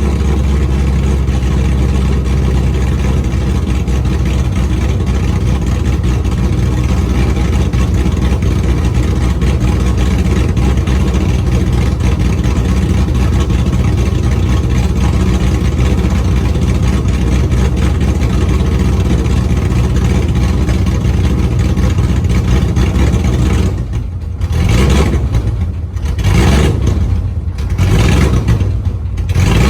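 2013 Ford Mustang GT's 5.0 Coyote V8 idling steadily through open long-tube headers with no mufflers. In the last few seconds it is revved briefly three times.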